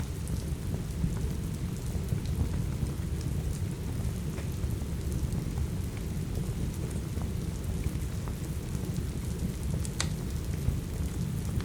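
Steady heavy rain with a deep low rumble, over which a wood fire gives off scattered small crackles; one sharper pop about ten seconds in.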